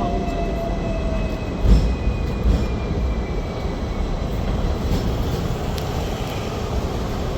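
Hong Kong double-decker electric tram running on its rails, a steady rumble with a motor whine falling slowly in pitch over the first few seconds. A single knock about a second and a half in.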